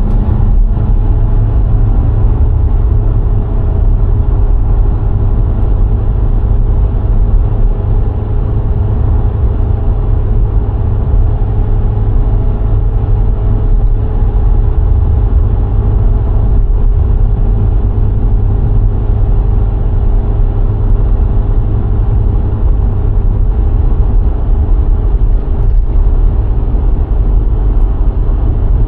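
VW Golf IV 1.6 cruising at a steady speed: a loud, even low rumble of road and wind noise, with the engine humming at a steady pitch throughout.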